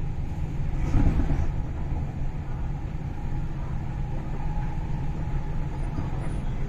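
In-car running noise of an MTR East Rail Line R-Train electric multiple unit running between stations: a steady low rumble from the wheels and running gear, with a single knock about a second in.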